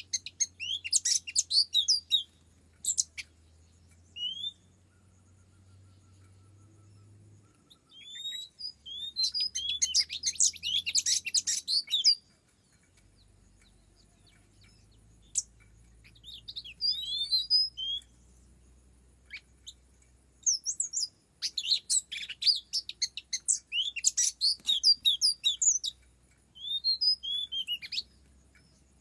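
Oriental magpie-robin singing in bouts of quick chirps and warbled whistles, each a second or a few long, with short pauses between them.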